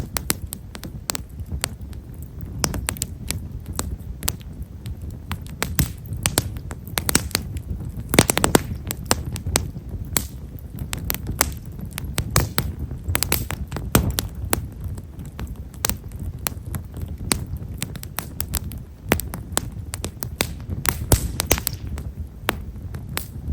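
Campfire of Japanese stewartia (himeshara) firewood crackling with fine, rapid little pops over the low rumble of the flames, a few louder snaps now and then.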